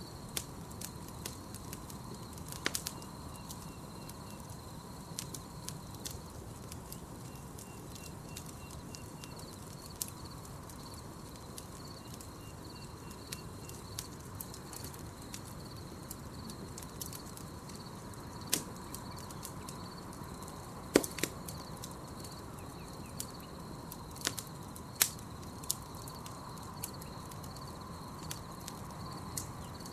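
Campfire crackling, with scattered sharp pops of burning wood, the loudest about two-thirds of the way through. Under it runs a steady high pulsing insect trill and a low hiss, with short bursts of quick chirps three times in the first half.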